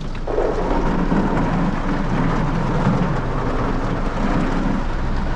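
Heavy rain falling on the roof and windscreen of a Honda Brio, heard from inside the cabin, with a steady low rumble underneath.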